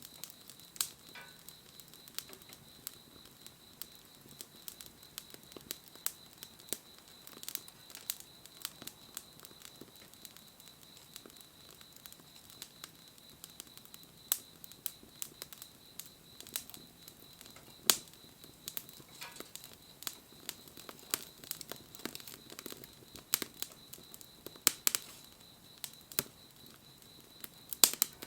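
Wood campfire crackling, with irregular sharp pops and snaps from the burning wood. A few louder pops stand out, one just under a minute's third in and another near the end.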